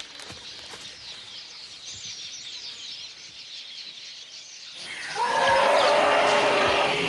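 Wild birds chirping faintly. About five seconds in, a much louder, rough noise sets in and carries on.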